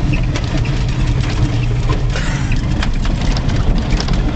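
Old truck engine running steadily at low revs, with scattered clicks and knocks over it and a short hiss about two seconds in.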